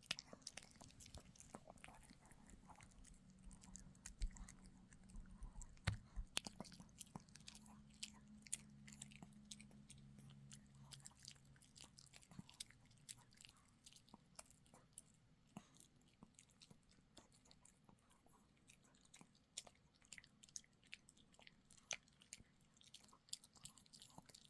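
Dog gnawing and chewing a hard dog chew, with many quick crunches and clicks of teeth.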